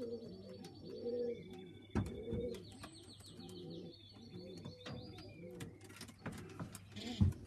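Pigeons cooing over and over, low rolling coos overlapping one another, with thin high twittering from smaller birds in the first half and scattered light clicks.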